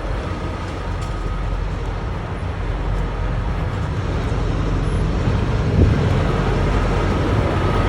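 Steady vehicle noise: a continuous low rumble of idling trucks and road traffic, with no distinct strikes or changes.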